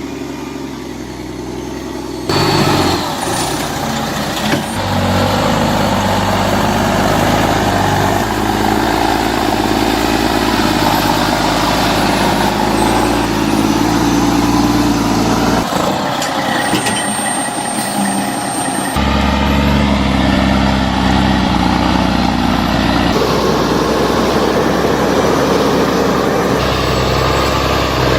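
Heavy truck engines running hard under load, in a run of short clips whose sound changes abruptly at each cut.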